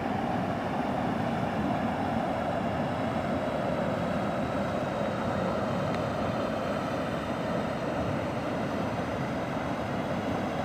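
Floodwater flowing steadily through a creek crossing, a constant rushing noise that does not change.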